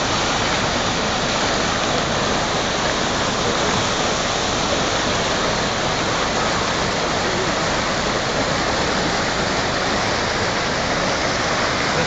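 Floodwater of rain and sewage rushing, a loud steady rush of water with no breaks.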